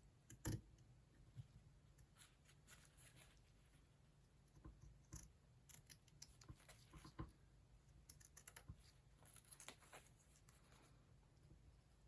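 Scissors cutting through linen fabric: faint, irregular snips and scrapes with a sharper click about half a second in.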